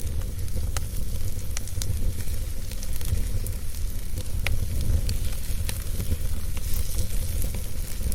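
Wood fire burning, with a steady low rumble and hiss and sharp crackles and pops from the burning wood several times a second.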